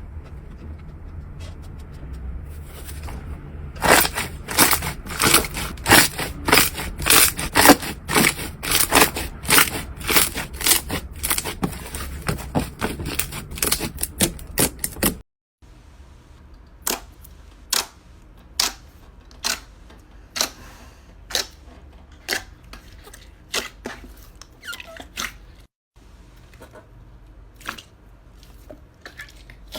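Slime being played with, giving a fast run of sharp clicks and pops, several a second. After a cut the clicks come slower, about one a second, and then fainter after another cut.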